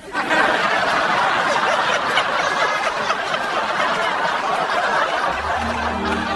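Laughter from a group of people, a dense continuous wash of chuckling. Steady musical notes come in about five seconds in.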